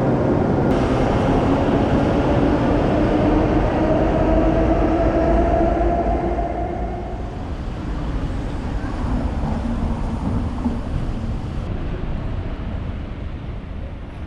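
Electric train running, its motors giving a whine in several pitches over the rumble of the wheels. The whine fades and the sound drops off about six seconds in.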